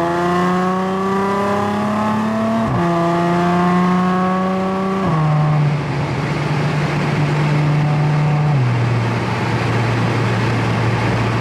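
Audi S4 B8.5's supercharged 3.0-litre V6 running through an ECS exhaust on test pipes, valves closed, while the car accelerates. The engine note rises slowly and drops sharply at two upshifts, about three and five seconds in, then holds steady and steps lower once more about three-quarters of the way through.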